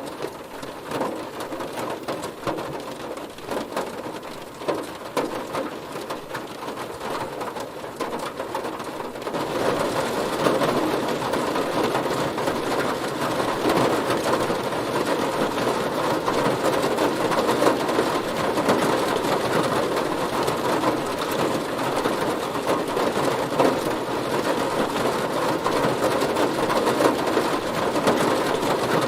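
Heavy rain drumming on a car, a dense steady patter of drops striking the body and roof. It grows louder about nine seconds in.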